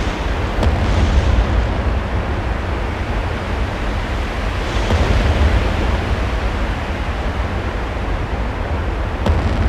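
Stage soundscape of loud rushing noise over a deep, steady rumble, like wind or surf, swelling about a second in and again around five seconds. A couple of faint knocks sound over it.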